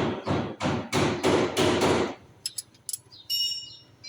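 Hammer blows in a mechanic's workshop, about three strikes a second for two seconds, followed by a few sharp clicks and a short ringing tone.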